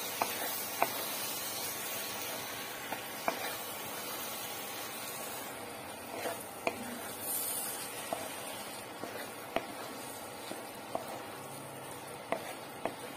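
Mashed vegetables and spice masala sizzling softly in a kadai while being stirred and sautéed for pav bhaji bhaji, with a dozen or so light, sharp taps of the wooden spatula against the pan.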